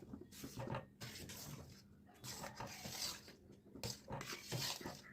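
Faint, irregular scraping and rustling with light clicks and knocks of kitchen work, in several short spells.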